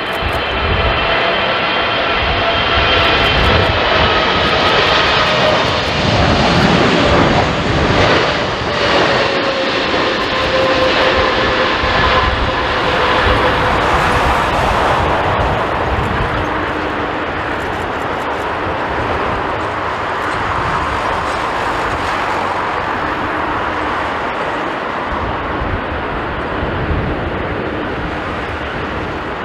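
Jet airliner passing close on landing, its engine whine slowly falling in pitch over the first half and giving way to a broad, steady rumble. Gusts of strong wind buffet the microphone.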